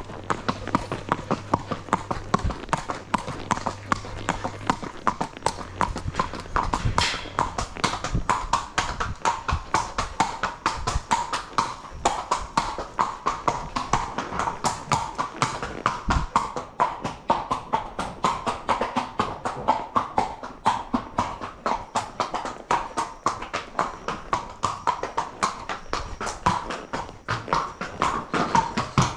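Horse's hooves clip-clopping at a steady walk on hard ground, about four hoofbeats a second.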